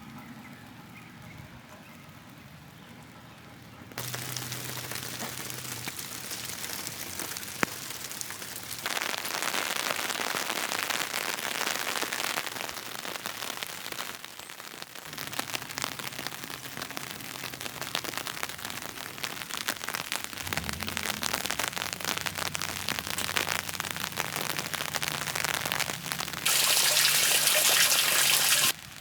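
Steady rain falling, in a run of short takes whose loudness jumps at each cut; loudest in a brief stretch near the end.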